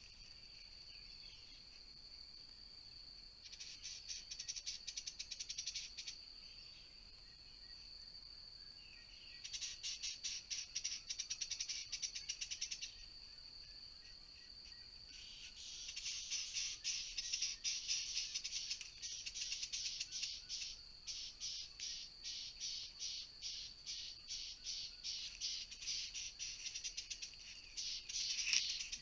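Insects calling: a steady high-pitched drone underneath, with three bouts of rapid, evenly pulsed chirping, the last bout long and running to the end.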